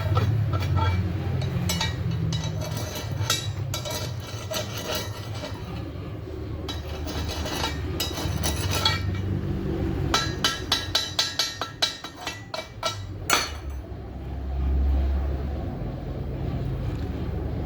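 Metal clinking and tapping, with a quick run of light, regular taps about ten seconds in, over a steady low hum.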